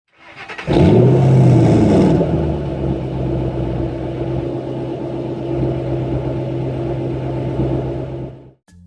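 Ford Mustang GT's 4.6-litre V8 with a Corsa exhaust cranking briefly and catching about half a second in. The revs flare up and settle, and the engine idles steadily until the sound cuts off suddenly near the end.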